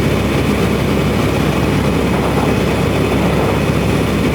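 Steady drone inside a moving semi truck's cab: engine, tyre and wind noise at highway speed in a strong wind, with no changes.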